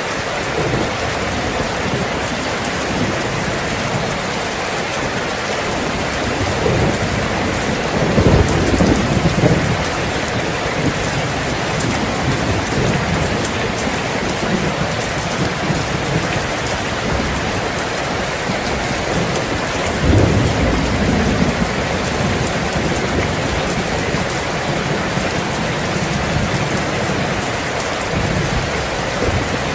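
Steady rain falling, with two low rolls of thunder: one about a quarter of the way in, and another about two-thirds of the way in.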